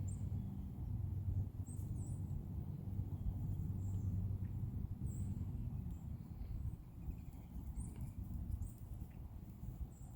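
Wild songbirds giving short, high-pitched chirps every second or so over a steady low hum.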